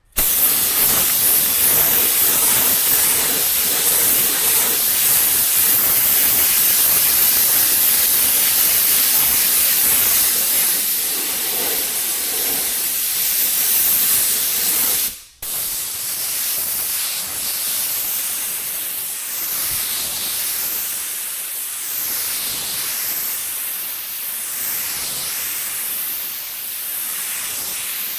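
Paint spray gun hissing as white paint is sprayed over primer spots on a car body. The hiss starts abruptly and cuts out briefly about fifteen seconds in. It then carries on a little quieter, swelling and fading in the upper range.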